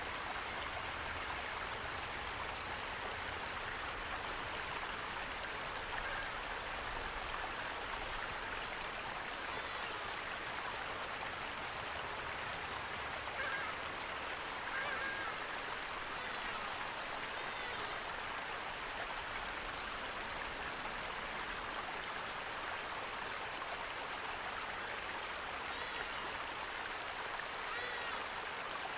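Steady rush of flowing water, like a stream or waterfall, with a few faint bird calls over it around the middle and near the end.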